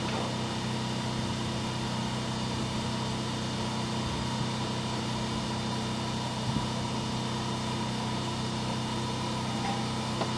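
Steady, unchanging low machine hum with a faint hiss, holding the same pitch throughout.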